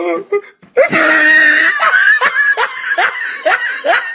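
A person bursting into loud laughter: a long drawn-out first cry about a second in, then a run of short rising laughs about three a second.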